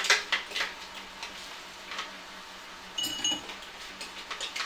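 Glassware and kitchen items clinking and knocking as they are handled: a quick run of clicks at the start and a short ringing clink about three seconds in.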